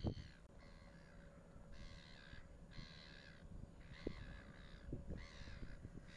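A bird calling over and over, about five calls roughly a second apart, each about half a second long, over a low rumble.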